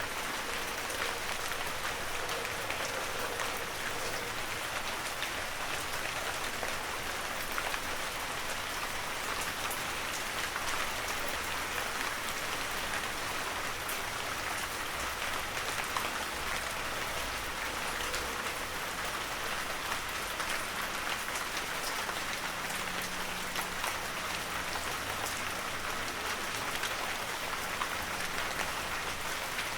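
Heavy rain falling steadily on a forest, a dense even hiss of many drops with fine patters throughout.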